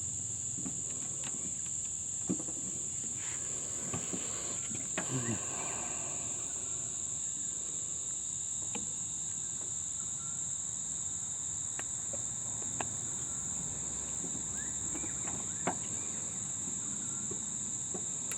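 A steady high-pitched drone, like crickets, with scattered faint clicks and light taps of small brake caliper parts being handled as a piston is worked into its bore.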